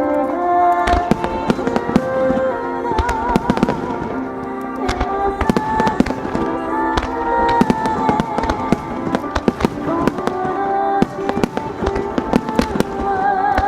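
Starmine fireworks barrage: many shells bursting in quick, irregular succession as sharp cracks and bangs, over music with held, wavering melody notes.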